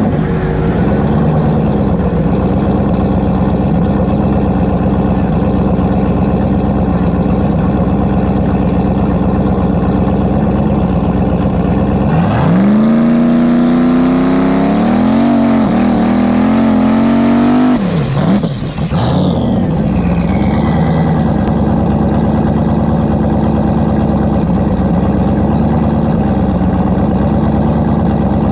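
Drag-racing engine idling with a lumpy, loping note. About twelve seconds in it is revved up and held high for about six seconds, then drops back to idle with a falling whistle.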